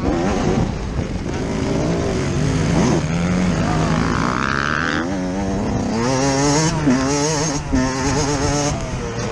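Yamaha YZ125 two-stroke motocross engine heard on board while riding, its revs rising and falling with the throttle, with a few brief dips near the end.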